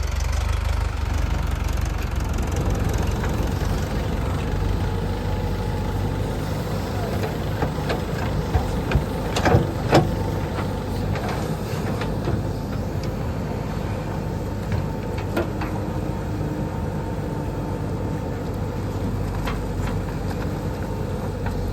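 Diesel tractor engine running steadily, with a few sharp knocks about midway.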